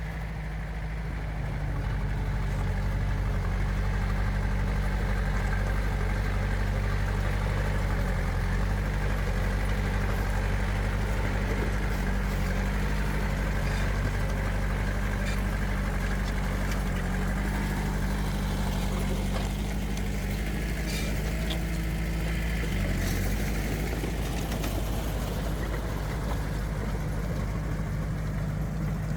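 Heavy diesel engine of an earthmoving machine running steadily, with scattered faint clicks in the middle part.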